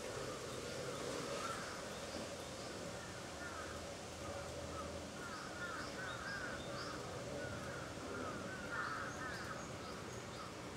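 Birds calling in quick runs of short sliding notes, repeated several times, over steady background noise.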